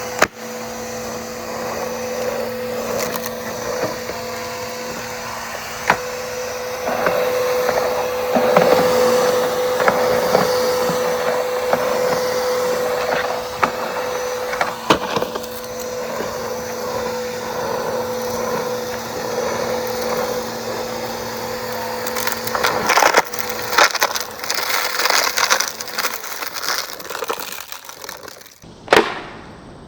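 Bissell Powerforce Helix upright vacuum cleaner running with a steady motor whine while grit and small stones crackle and rattle as they are sucked up. The motor hum stops about three-quarters of the way through while the clattering carries on briefly.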